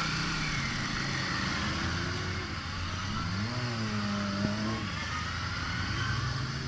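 Motorcycles riding past in a steady stream, their engines running together with tyre and road noise. About three seconds in, one engine rises in pitch as it accelerates, holds briefly, then fades.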